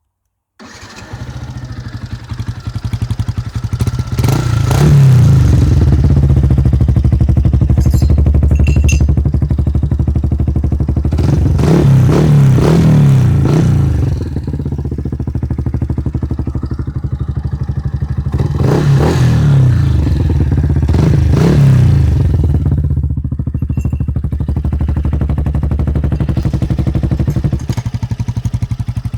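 Yamaha YZF-R125's single-cylinder four-stroke engine running through a Malossi GP aftermarket exhaust, idling steadily between sharp throttle blips. The engine starts up suddenly at the very beginning. Bursts of quick revs come a few seconds in, again around twelve seconds, and again around twenty seconds.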